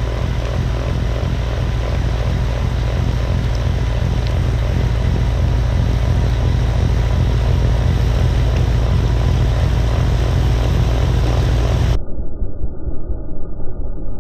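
Gas snowblower engine running steadily close up. About twelve seconds in the sound abruptly turns muffled and uneven.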